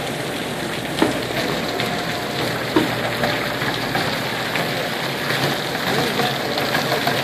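Rainwater leaking through the ceiling and splashing steadily onto the floor, with a sharp knock about a second in and another near three seconds. The water comes from extremely heavy rain overwhelming the gutters and pushing under the roof flashing.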